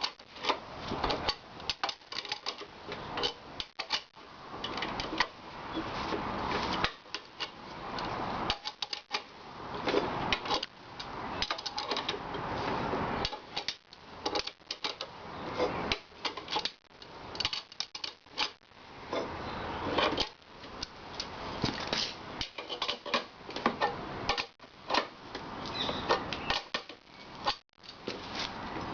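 Metal parts of an antique wrought-iron blacksmith's post vise clicking, knocking and scraping as they are fitted back together, with irregular clatter and stretches of scraping.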